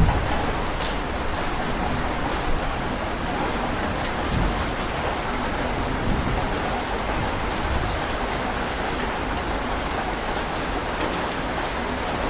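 Heavy rain falling steadily, with scattered drops striking a surface. A low rumble of thunder dies away in the first moments.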